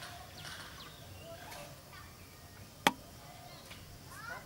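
Birds chirping with short, quick rising and falling calls, and one sharp, loud click about three seconds in.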